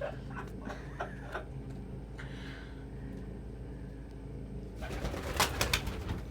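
Domestic pigeons cooing softly, with light scratchy ticks of birds moving about. About five seconds in comes a louder burst of sharp clattering and rustling.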